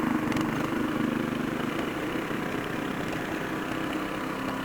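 Engine of a tracked walk-behind tractor running steadily as the machine pulls away through snow.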